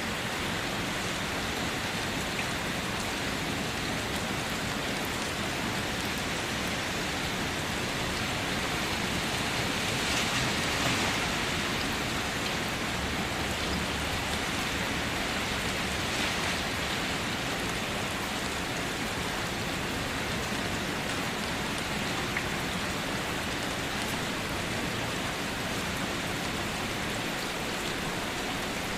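Steady rain falling on surfaces, a continuous even hiss of drops with no thunder, swelling slightly for a moment about a third of the way through.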